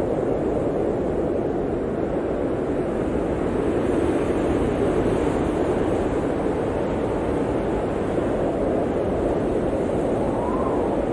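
Blizzard wind blowing hard and steadily, a low rushing noise that swells slightly about four seconds in, with a faint whistle rising and falling near the end.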